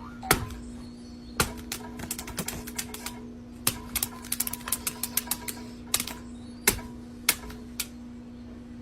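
A quick, irregular run of sharp clicks and taps, bunched in flurries, over a steady low hum.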